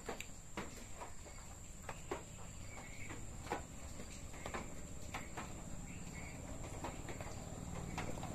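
A person eating raw beef, with scattered faint clicks of chewing and mouth sounds, one or two a second. A steady high thin whine and a low hum run underneath.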